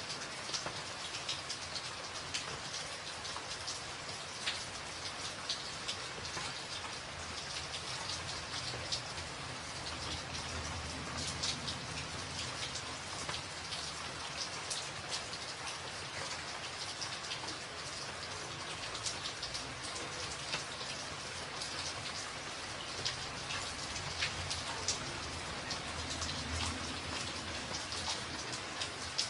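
Steady rain drumming on a tin roof, a constant hiss dotted with many sharp drop ticks, with a low rumble that swells twice.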